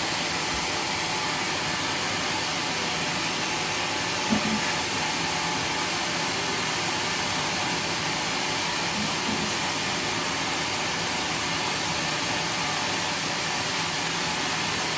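Steady machine-like rushing noise at an even level, with one short knock about four seconds in.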